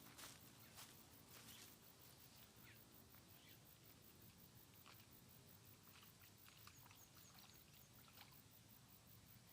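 Near silence: faint outdoor ambience with scattered soft clicks, and a few faint high chirps about two thirds of the way through.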